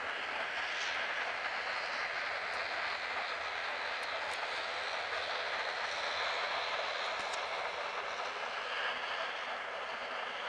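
Airliner jet engines making a steady rushing noise that holds an even level throughout.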